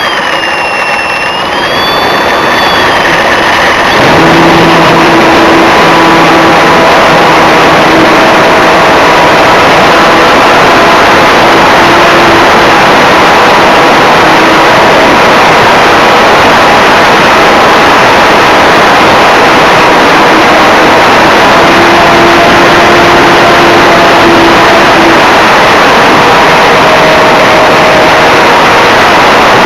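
Electric RC Cessna 182 model heard through its onboard camera's microphone: a brushless motor whine that glides up and down in pitch, then about four seconds in a jump to a loud, steady rush of motor and wind noise that lasts to the end.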